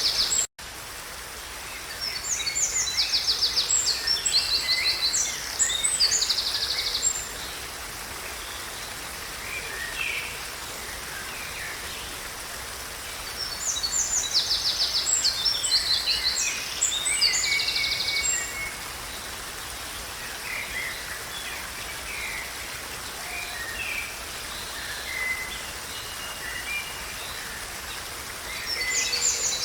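A songbird singing long bouts of fast trills and chirps, two bouts a few seconds long with scattered single calls between, over a steady background hiss. The sound cuts out for an instant about half a second in.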